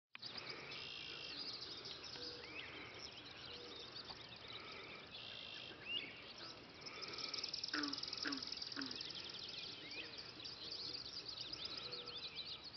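Several songbirds singing and calling together: overlapping chirps, whistles and short upward-sliding notes, with a fast trill of quickly repeated notes a little past halfway and a few short lower notes among them.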